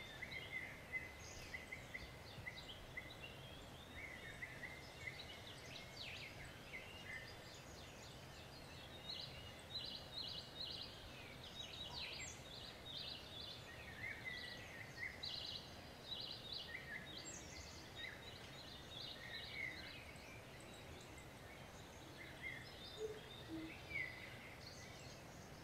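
Birds chirping and calling intermittently, with short repeated trills scattered throughout, over faint steady background noise.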